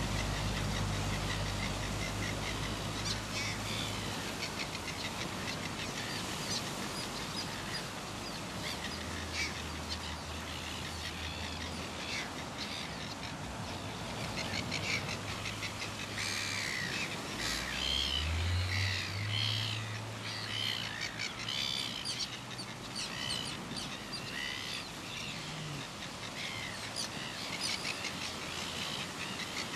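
Red-billed gulls calling: many short, harsh calls, densest about halfway through. A low steady hum comes and goes beneath them.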